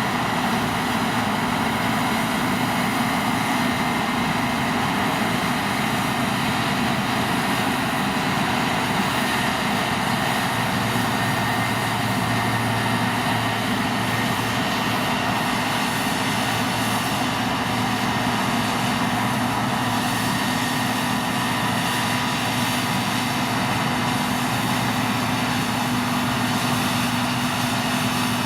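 Deutz-Fahr C9306 CS combine harvester running steadily while harvesting, a constant engine drone mixed with the whir of its threshing machinery.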